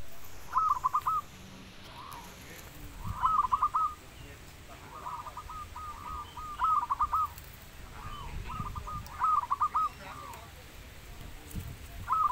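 Zebra dove (perkutut) singing: about five bursts of its rapid staccato cooing, each a quick run of short hooked notes, repeated every few seconds.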